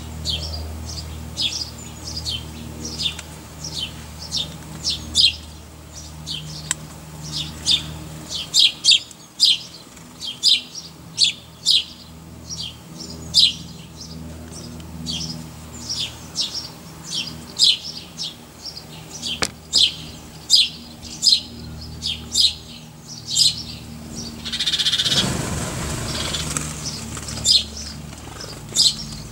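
A small bird chirping over and over, short high downward chirps about one or two a second. A brief rush of noise near the end.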